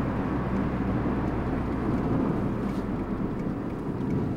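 Steady road and engine noise inside a moving car, a constant low rumble.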